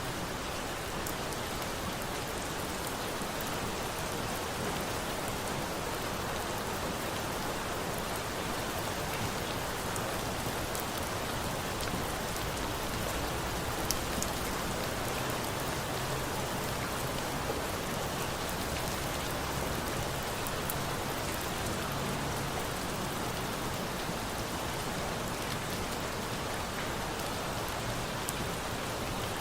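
Steady rain falling, an even hiss with a crackling campfire mixed in, giving scattered sharp pops, one louder pop about halfway through.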